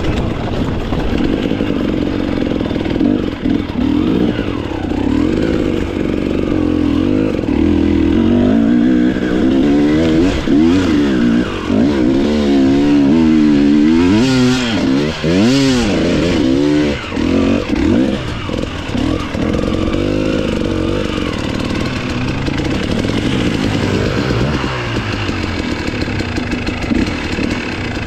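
Enduro dirt bike engine revving hard, its pitch swinging up and down quickly as the throttle is worked, loudest about halfway through.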